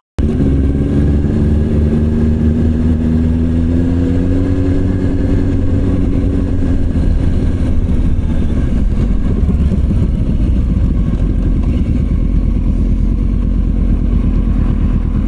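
Motorcycle engine running under way. Its pitch rises slightly over the first few seconds, then falls away, and it settles into a slower, even pulsing beat for the second half.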